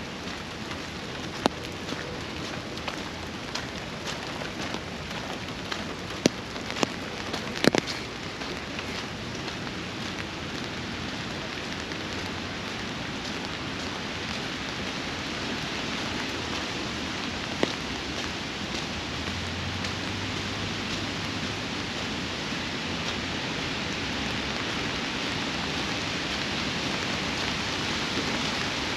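Steady rain falling, growing slightly louder toward the end, with a few sharp single taps of drops, several of them a little before the middle and one more later on.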